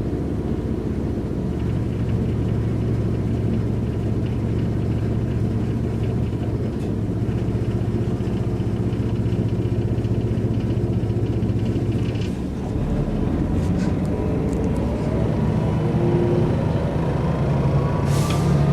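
Mercedes-Benz O405 N² city bus's diesel engine with Voith automatic transmission running at a steady pitch, easing off briefly about two-thirds through, then pulling hard with the engine note rising steadily to the end. A short sharp rattle comes just before the end.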